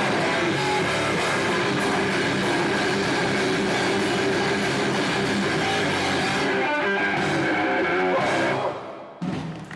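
Metallic hardcore band playing live: loud, distorted electric guitars and drums. The song breaks off about eight and a half seconds in, leaving a short lull.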